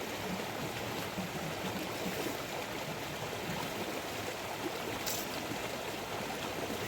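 Steady rushing water noise, an even hiss with no rhythm, with a brief faint tick about five seconds in.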